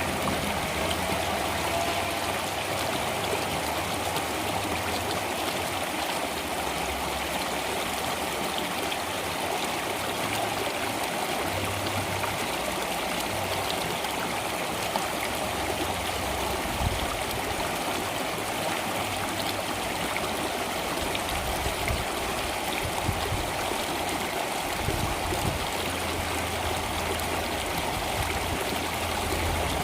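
Flowing water: a stream running steadily, with small gurgles and splashes.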